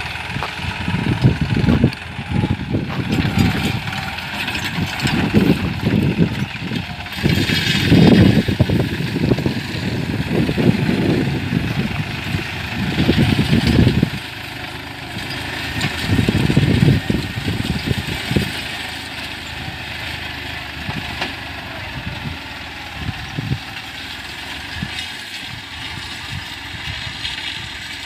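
A New Holland 49 hp tractor's 2,700 cc engine running while pulling a six-disc plough. The sound is loud and uneven for the first half, then steadier and a little quieter from about halfway.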